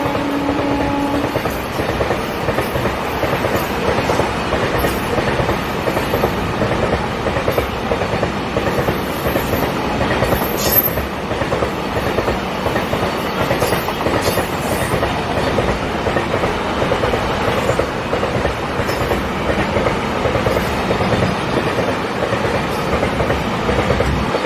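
Double-stack container wagons of a freight train rolling past close by, with a steady noise of steel wheels on the rails. A brief sharp high squeak comes about ten seconds in.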